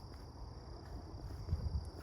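A steady high-pitched insect drone, over uneven low rumbling thumps that are loudest near the end.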